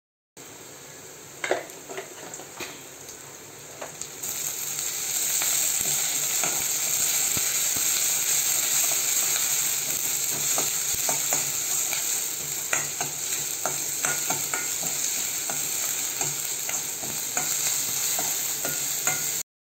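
Small onions, curry leaves and ginger-garlic paste sizzling in hot oil in a metal kadai while a spoon stirs them, scraping and clinking against the pan. The sizzle grows louder about four seconds in.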